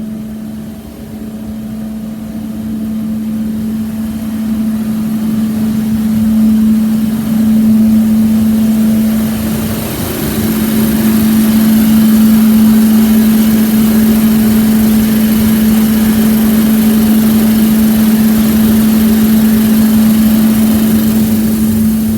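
Duct-cleaning vacuum machine running with a steady motor hum and a rush of air. It grows louder over the first dozen seconds, then holds steady.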